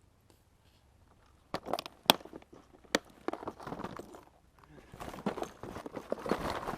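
Quiet at first, then from about a second and a half in, a run of sharp knocks and crunching, rustling handling noise close to the microphone.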